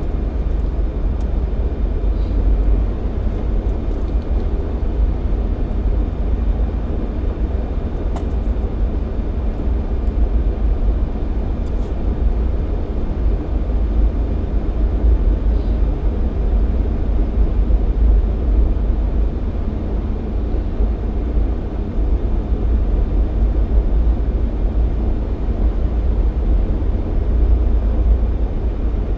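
Jeep Cherokee XJ driving on a snowy highway: a steady, low engine and road rumble with no breaks.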